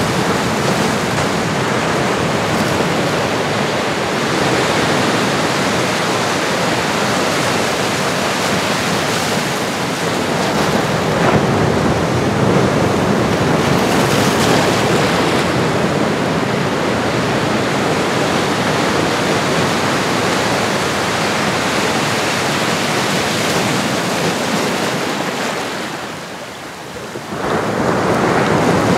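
Ocean surf: a steady, rushing wash of waves that eases off briefly near the end and then swells back up.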